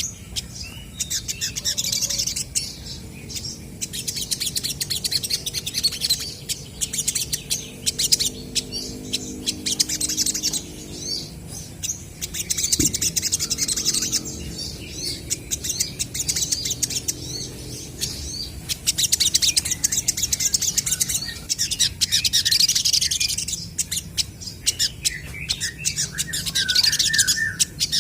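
Olive-backed sunbirds calling to each other in rapid, high, twittering bursts of a few seconds each, one answering another, with short pauses between phrases.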